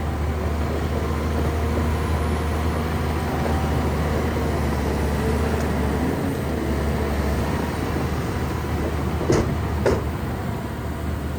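Shantui bulldozer's diesel engine running with a steady low drone, with two sharp knocks just over half a second apart near the end.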